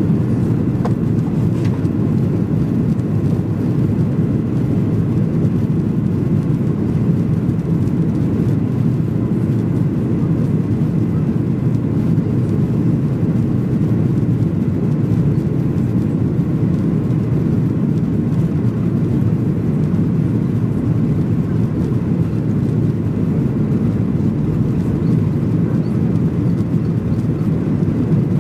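Steady engine and airflow roar inside the cabin of a Boeing 737-800, its CFM56 turbofans running at a constant power setting, heard from a window seat.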